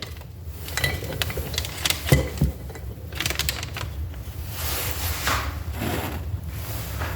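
Small metal parts of a Toyota 4AFE distributor being handled and fitted into the housing by hand: scattered light clicks and scrapes, with a few longer rustling swishes.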